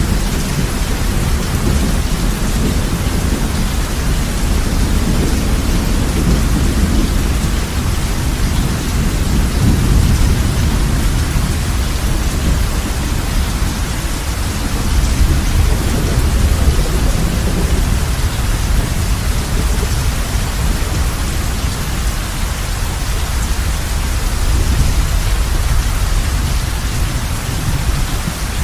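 Heavy rain falling steadily on a roof, with a low rumble of thunder that swells and fades underneath it.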